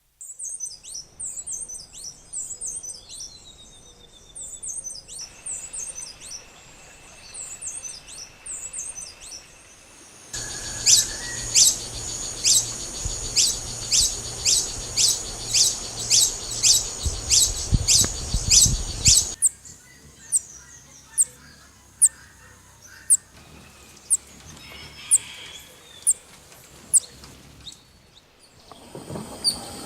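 Wild birds calling: first a jumble of high chirps, then a bird repeating a loud, high, down-slurred note about twice a second, then similar high notes spaced about a second apart.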